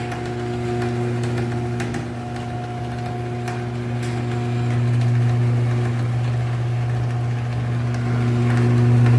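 Garage door opener motor running with a steady electric hum and light scattered clicks as it drives the door.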